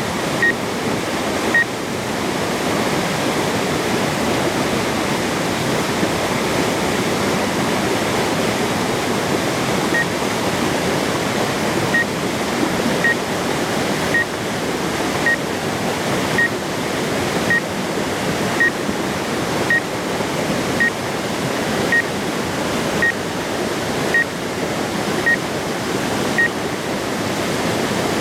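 Steady rush of a waterfall. From about ten seconds in, a short high beep repeats about once a second.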